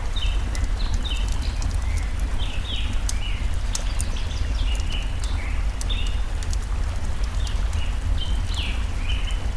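Forest ambience: a stream's steady low rush of water under crackling campfire pops, with a bird repeating quick, short chirping notes throughout.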